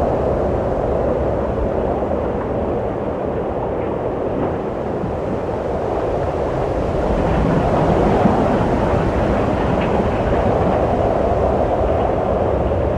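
Wind blowing: a steady, low rushing that swells a little about halfway through and then eases back.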